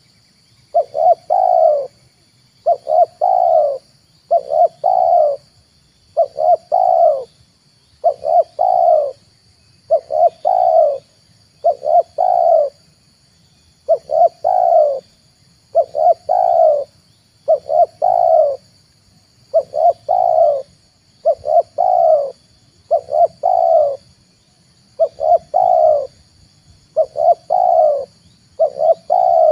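Spotted dove cooing over and over, each call a quick run of about three deep coo notes, repeated about every two seconds. A faint steady high-pitched whine runs underneath.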